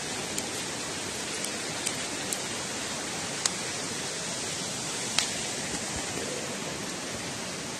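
Wood campfire crackling: a few sharp, irregular pops and snaps, the loudest a little past five seconds in, over a steady rushing hiss.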